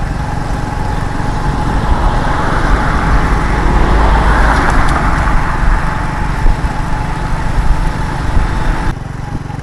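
Motorcycle running on the move, a steady engine drone under a loud rumble of wind on the microphone. The noise swells in the middle and drops off suddenly near the end.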